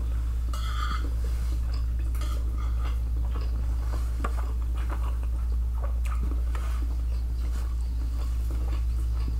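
Close-miked chewing of food, with irregular soft mouth clicks and a fork scraping and tapping on a plate. A steady low hum runs underneath.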